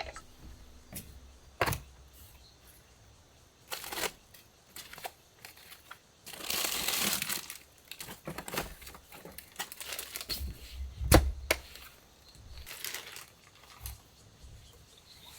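Cooking gear and packaging being handled: scattered sharp clicks and knocks, with about two seconds of crinkly rustling near the middle.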